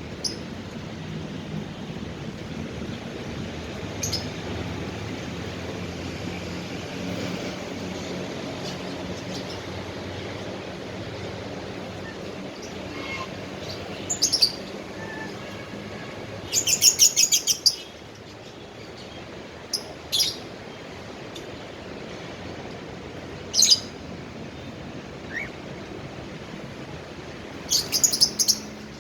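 A cockatiel calling: short, shrill chirps spaced a few seconds apart, with two quick chattering runs of repeated notes, one midway and one near the end, over steady background noise.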